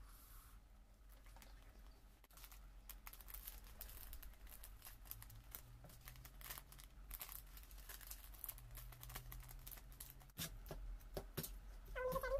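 Plastic packaging crinkling and tearing in scattered rustles and small clicks, as with ramen sauce packets being opened and handled. Right at the end, a cat starts a loud wavering meow.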